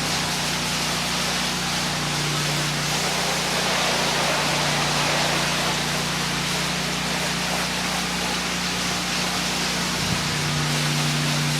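Honda-powered 8 gpm pressure washer running steadily, its engine holding a constant hum under the even hiss of high-pressure water spray.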